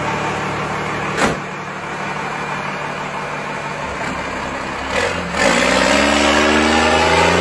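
Truck engine idling steadily, with one sharp knock about a second in, then revving up about five seconds in, its pitch climbing as it speeds up.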